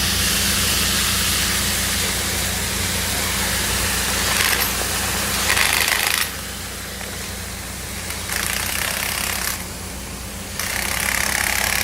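Pressurised water spraying from a broken water main, a loud steady hiss over a low mechanical hum. It drops and returns abruptly a few times.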